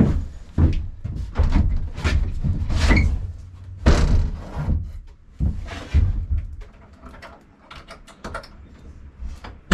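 A series of irregular knocks and thumps, like wood being bumped and handled. The heaviest come about 2 and 4 seconds in, with lighter taps between.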